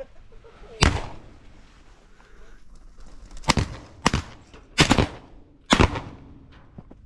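Shotgun shots at pigeons: one about a second in, then four more in quick succession over the next three seconds, each a sharp blast with a short echoing tail.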